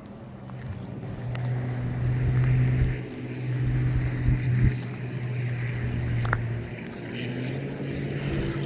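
A motor vehicle's engine running with a steady low hum that grows louder about a second in, with a few short knocks around the middle.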